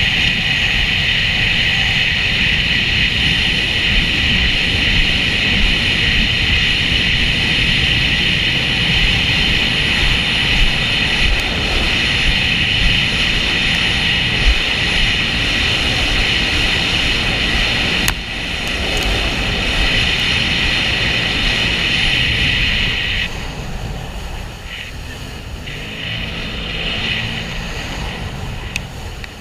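Sea-Doo jet ski running at speed: a steady high whine over a low rush of noise. About 23 seconds in the whine drops away and the sound gets quieter as the craft slows down.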